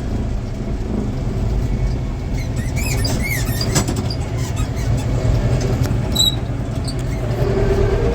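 Farm tractor engine running steadily with a low rumble, heard from the cab. A few short squeaks, from the tractor's squeaky seat, come about two and a half to four seconds in.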